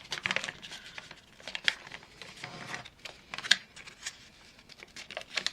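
Paper rustling and crinkling in a run of short, sharp crinkles as a freshly glued paper pocket is handled and pulled open to check it has not glued shut; the sharpest crinkle comes about three and a half seconds in.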